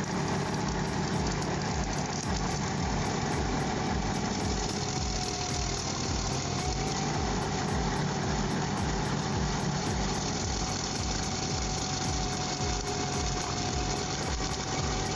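Excavator diesel engine running steadily under a stump-crushing job, with low, even pulsing and a thin steady whine above it.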